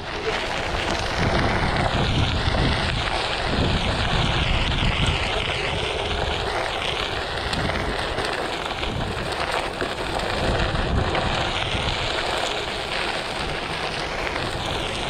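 Onewheel XR rolling over a dirt trail: its tyre crunching on the dirt and its hub motor whining, the whine rising and falling in pitch as the speed changes. Wind buffets the microphone throughout.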